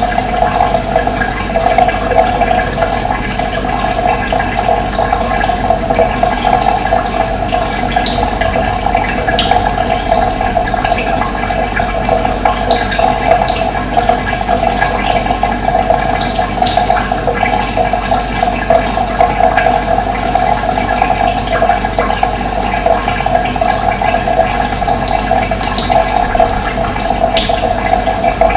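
Running water flowing steadily, a loud continuous rushing and gurgling, with a few brief high bird chirps now and then.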